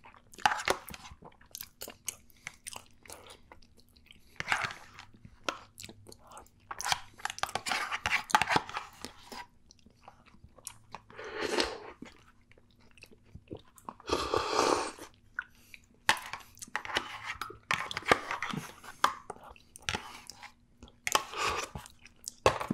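Close-miked chewing of soft baby food, mashed potatoes and meatloaf in gravy, in irregular bursts with short pauses between mouthfuls.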